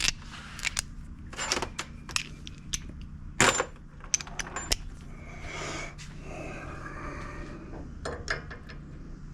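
Scattered metal clinks and taps of hand tools and small engine parts being handled while a new spark plug is fitted, the sharpest knock about three and a half seconds in.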